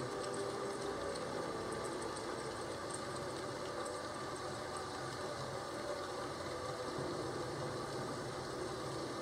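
Steady rain: an even hiss of rainfall with a low rumble underneath.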